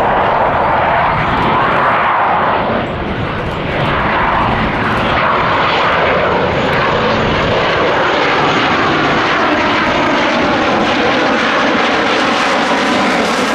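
Loud, continuous jet noise from F/A-18 Hornet fighter jets flying past, with a brief dip about three seconds in and tones that sweep up and down as the jets move.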